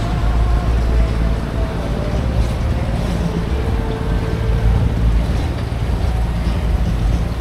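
A boat's engine running steadily: a low, even hum with a faint higher tone above it.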